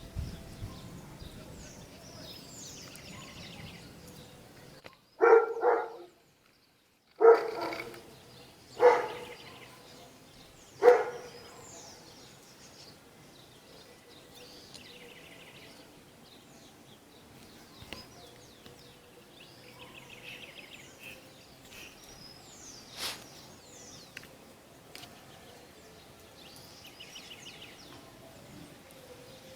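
A dog barking five times in the first half, the barks spaced one to two seconds apart, with birds chirping faintly throughout.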